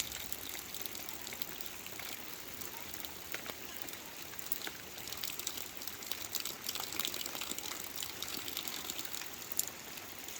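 Heavy rain falling steadily, a dense patter of drops with water running and pouring.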